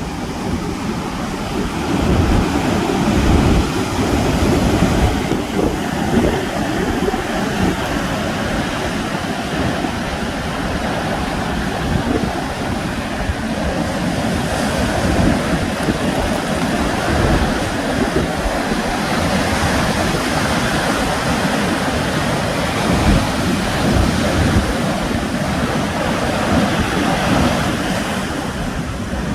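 Sea surf washing onto the shore in a steady rush, with gusts of wind buffeting the microphone and adding an uneven low rumble.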